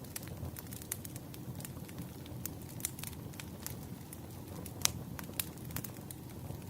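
Burning firewood crackling: irregular small snaps and pops over a steady low rumble, with one louder pop about five seconds in.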